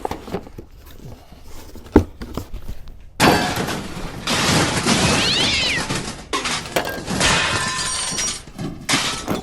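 A parts box being ripped open. A single sharp click comes first, then from about three seconds in a loud, long tearing and squealing of cardboard and packing tape.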